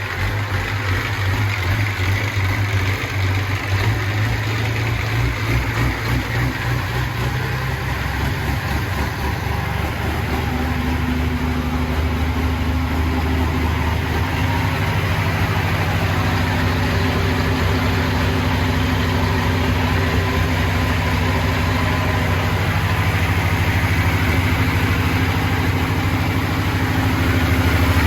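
Pulling tractor's engine idling steadily, its note shifting slightly partway through and growing a little louder near the end.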